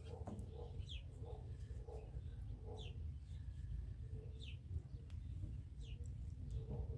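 A bird chirping over and over, a short high falling chirp about once a second, with softer lower calls mixed in, over a steady low rumble.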